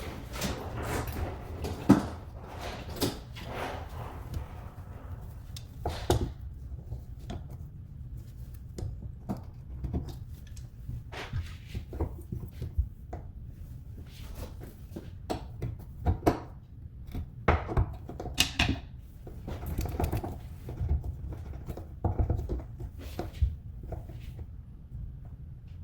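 Irregular clicks, knocks and scrapes of hands and tools working on faucet parts, the sharpest knock about two seconds in, over a low steady hum.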